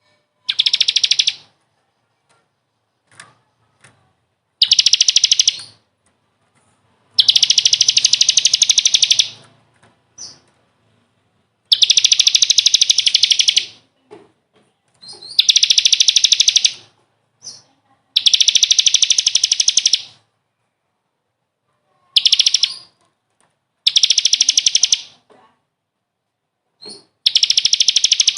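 A songbird singing fast trilled phrases, repeated about nine times in bursts of half a second to two and a half seconds with clean silent gaps between. It is a masteran recording, played to caged songbirds so they learn the song.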